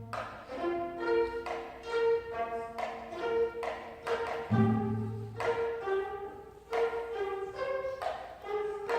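Gayageum ensemble playing plucked notes that ring and fade, over a repeated middle note, with deep bass notes coming in about halfway through.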